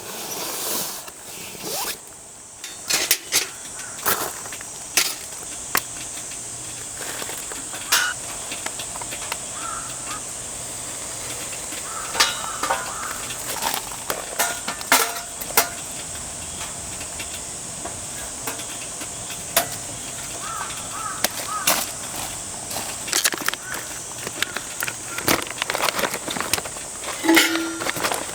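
Steady hiss of rain, with irregular clicks, taps and light clinks of things being handled scattered throughout.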